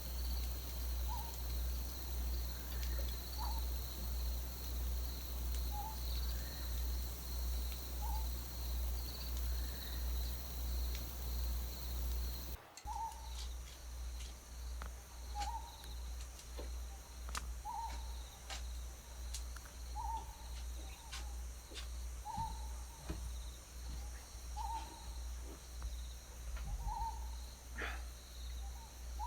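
An owl calling, one short hoot about every one to two seconds, over a low hum that swells and fades about once a second and a faint steady high insect-like tone. The background briefly drops out about twelve seconds in.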